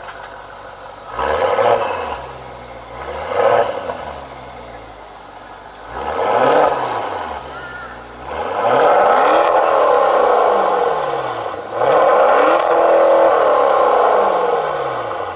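Maserati Quattroporte GTS's 3.8-litre twin-turbo V8 being revved: three short blips, then two longer revs, each held for a few seconds before the pitch falls back to idle.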